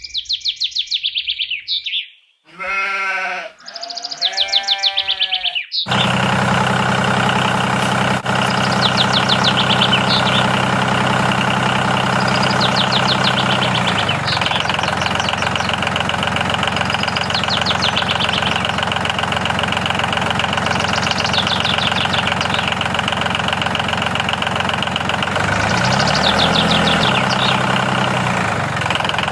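Two bleats a few seconds in, then a steady engine drone that runs on with fast ticking over it.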